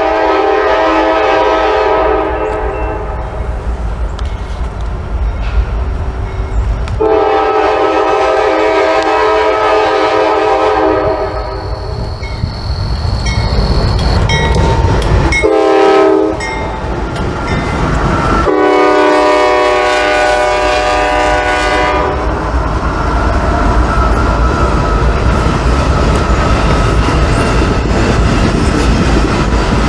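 Freight train's diesel locomotive horn sounding the grade-crossing signal: two long blasts, one short, then one long. The train then rolls past with wheels rumbling and clacking over the rail joints.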